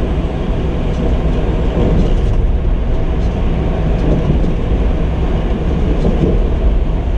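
Steady drone of a semi truck's diesel engine and road noise inside the cab while driving.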